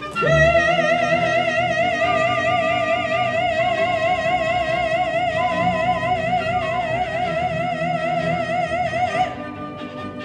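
Operatic soprano voice holding one long high note with a wide, even vibrato over instrumental accompaniment, breaking off about nine seconds in.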